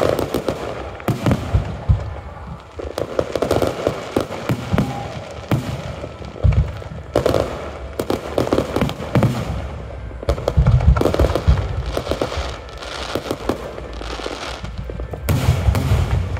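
Aerial fireworks show: shells launching and bursting in quick succession, many sharp bangs and deep booms with crackling between them.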